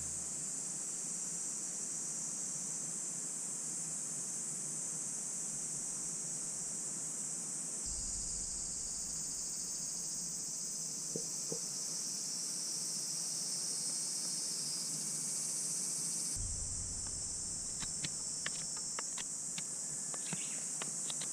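A steady, high-pitched chorus of summer insects, with a few faint clicks in the last few seconds.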